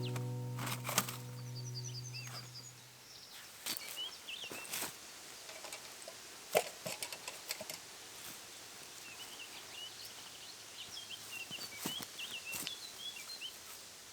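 Background music fading out over the first few seconds, then small birds chirping in short, quick calls, mostly in the second half, with scattered sharp clicks and knocks.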